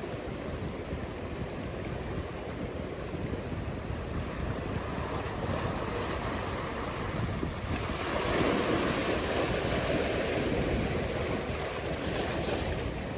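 Ocean surf: a steady wash of waves that swells into a louder rush about eight seconds in, as a wave breaks.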